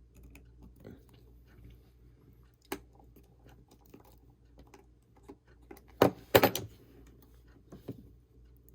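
Small clicks and taps of tools and small parts being handled during an iPhone repair, with a loud short clatter about six seconds in and a sharper click near the end.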